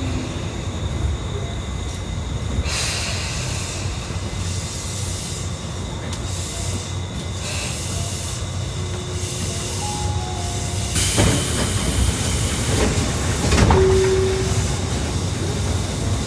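Tokyu Toyoko Line commuter train running, heard from inside the car: a steady rumble of wheels and running gear with a hissing noise. Brief louder rushes come about eleven seconds in and again around thirteen to fourteen seconds.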